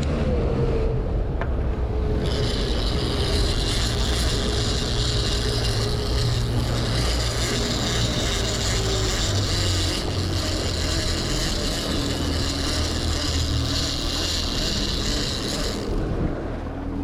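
Boat engine running steadily while under way. A high, even hiss or whir joins about two seconds in and cuts off suddenly near the end.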